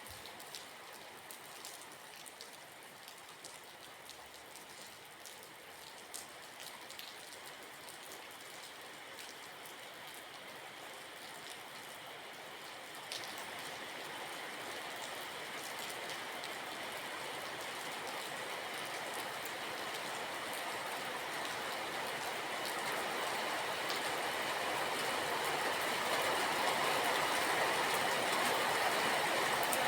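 Steady rain, with scattered drops ticking sharply on a surface, that swells gradually louder through the second half.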